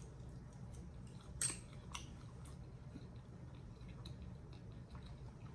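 Faint scattered clicks over a low steady hum, one a little louder about a second and a half in.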